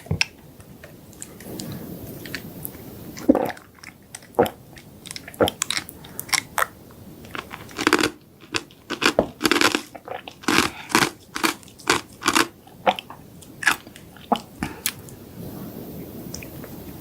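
Close-miked chewing and crunching of chocolate desserts: bites, crisp crunches and wet chewing, coming thick and fast for a few seconds in the middle before easing off again.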